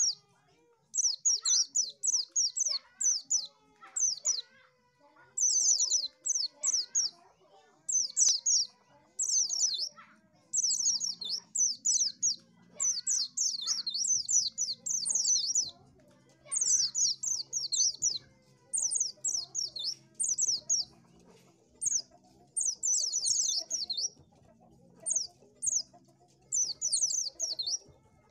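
Pleci (white-eye) song: quick runs of high, sharply falling notes in bursts of about a second, repeated over and over with short pauses.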